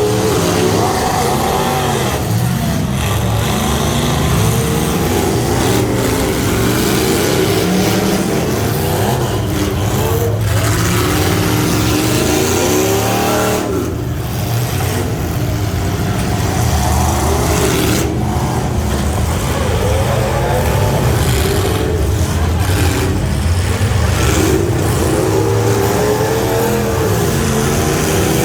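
Half-ton pickup truck engine running hard under load, its pitch rising and falling continuously, with a brief dip about fourteen seconds in.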